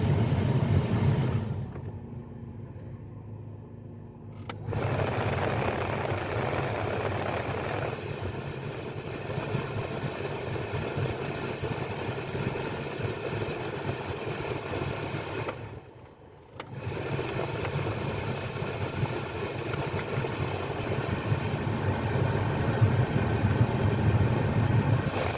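2016 Jeep Patriot's engine running with a steady low hum, the sound dropping away twice, briefly.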